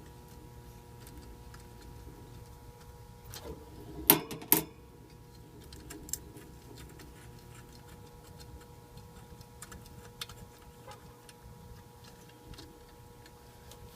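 Light, irregular clicking and ticking from hand tools being worked on metal parts, with two sharp, loud clacks about four seconds in, over a faint steady hum.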